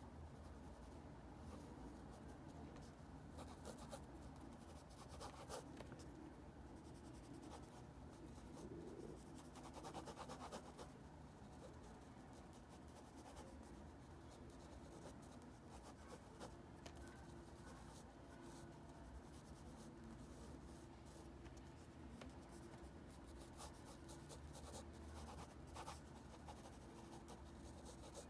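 Faint scratching of a drawing implement on paper, a steady stream of short strokes sketching a truck.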